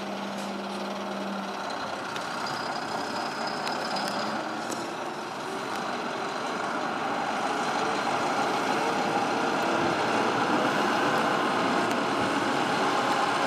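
Scania V8 diesel road-train tanker running, its engine and road noise growing steadily louder.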